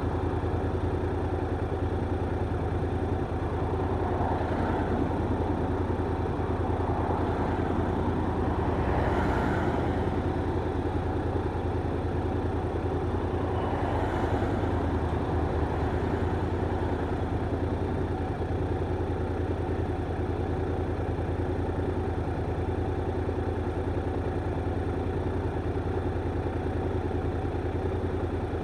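Honda NC750X's parallel-twin engine running steadily, a deep, even exhaust note with no revving, with a few soft swells of wider noise.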